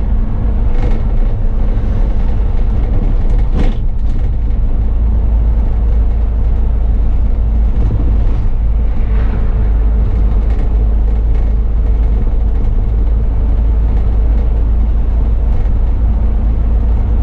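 Bus engine and drivetrain running while driving, heard from the driver's cab: a steady low rumble with a faint whine, and a single knock about four seconds in.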